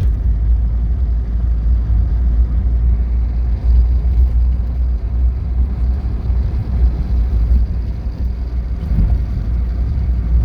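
1983 Porsche 944's 2.5-litre four-cylinder engine running at low revs in fourth gear, heard from inside the car as a steady low rumble mixed with road noise while cruising.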